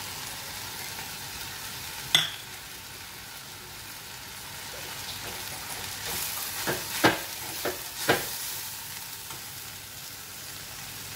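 Sliced onions and spices sizzling in hot oil in a metal kadai, stirred with a steel spoon. A sharp clink of spoon on pan comes about two seconds in, then a run of clinks and scrapes between about six and eight seconds as the spice powders are mixed in.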